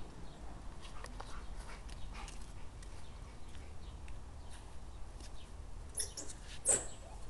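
A dog making brief sounds, the sharpest and loudest a short one near the end, over a low steady hum.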